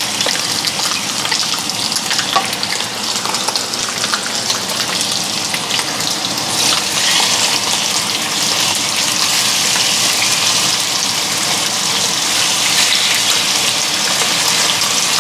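Steaks sizzling and crackling as they fry in hot oil in a wok; the sizzle grows louder about six seconds in.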